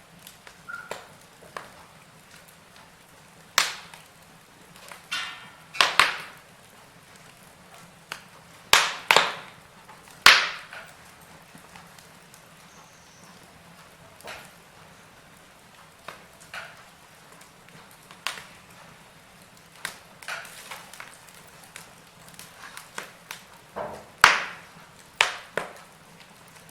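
Wood fire burning in a fireplace, crackling with irregular sharp pops and snaps, a few of them much louder, over a faint steady hiss.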